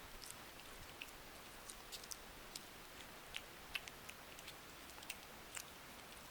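A cat eating at close range, faint chewing heard as small sharp clicks a few times a second at irregular intervals.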